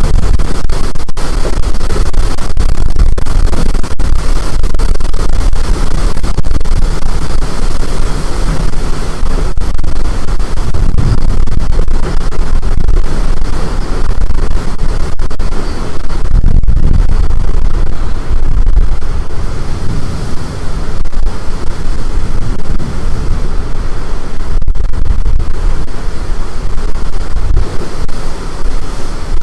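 Storm wind blasting the microphone: a loud, unbroken rushing roar, heaviest in the low rumble and surging in gusts.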